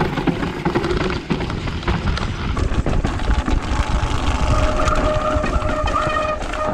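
Mountain bike ridden down a rough, dusty trail, with a Turbospoke exhaust rattling against the spokes in a fast run of clicks over a low rumble. A steady squeal joins from about halfway through and stops just before the end.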